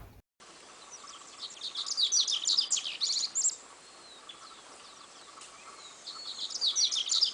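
Small birds chirping and singing in two quick flurries of high, rapid notes, with a faint steady tone underneath.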